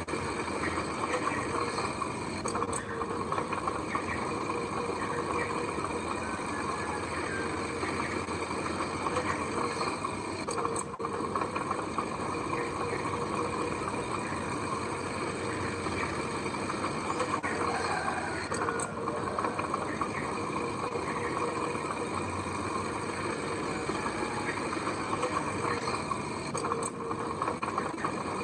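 Engines of heavy earthmoving machinery running steadily, with a continuous, unbroken machine noise.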